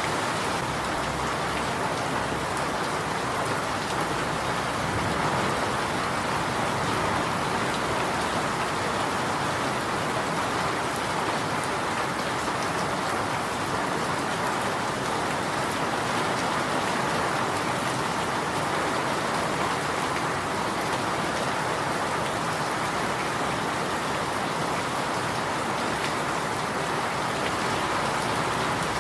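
Steady, even rainfall: a constant rushing hiss with faint scattered drop ticks and no breaks.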